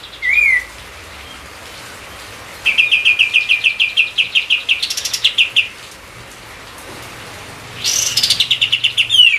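A songbird singing: a short falling whistle, then two bouts of a fast, even trill of about eight notes a second, the second ending in falling slurred notes.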